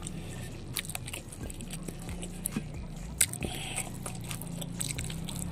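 Close-miked chewing and mouth sounds, with crisp cracks and snaps as a fresh petai (stink bean) pod is split open by hand; the sharpest crack comes about three seconds in.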